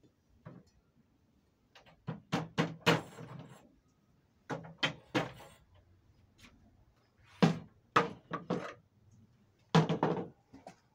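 Sharp knocks and clanks in four short bursts, each burst a quick run of several hits, separated by quiet gaps.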